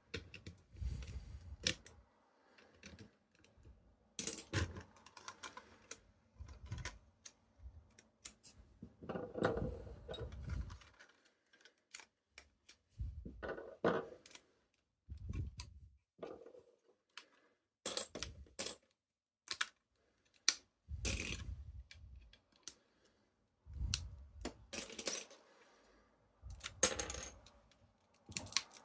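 Lego pieces being handled: irregular small plastic clicks and rattles, with dull low thumps now and then as the model is knocked against or set down on a surface.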